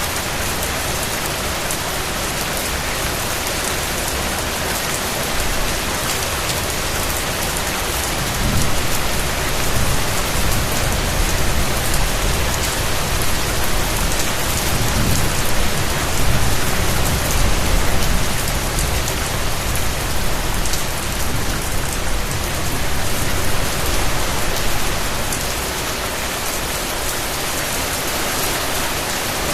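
Steady rain falling on surfaces, a dense even patter. From about eight seconds in a low rumble, like distant thunder, swells under the rain and dies away a few seconds before the end.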